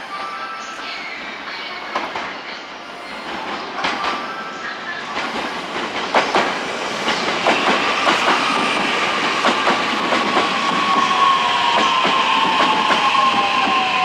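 JR E131 series electric train running, its wheels clacking over rail joints with a stream of sharp clicks, growing louder. In the second half a whining tone slides slowly down in pitch.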